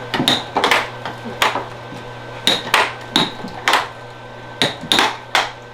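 Repeated sharp clacks of hard game pieces striking during a tabletop beer hockey game, about a dozen irregular hits, each with a brief high ring.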